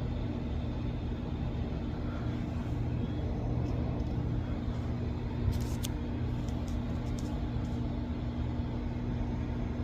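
Steady low mechanical hum with a faint steady tone, like a fan or heater running in a room, with a few faint ticks about halfway through.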